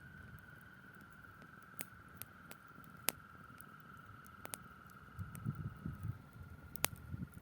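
Frogs calling in a steady, trilling chorus, with the sharp snaps and pops of a crackling campfire now and then. A low rumbling noise comes in for a couple of seconds near the end.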